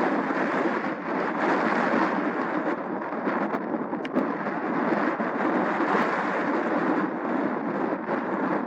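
Steady rumbling roar of an Airbus A320neo's jet engines as the airliner comes in to land.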